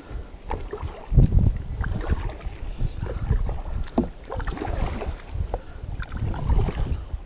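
Kayak out on a river: irregular water splashes and knocks around the hull, with low rumbling wind on the microphone.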